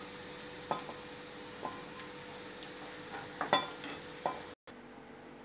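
Baby potatoes sizzling in hot oil in an aluminium kadai, fried golden brown, with four short metallic clinks of a slotted steel spoon against the pan and a steel bowl as they are lifted out. The sizzle cuts off suddenly near the end.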